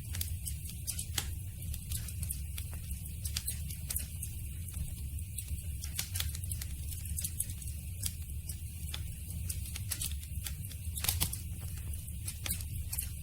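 Campfire burning: wood crackling with frequent irregular sharp pops over a steady low rumble of the flames, with a louder pop about eleven seconds in.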